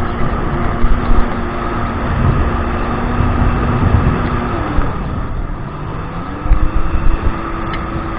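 Kawasaki 1200 jet ski engine running under way, with rushing water and wind noise. The engine note holds steady, dips about five seconds in as the throttle eases, then climbs back and holds again.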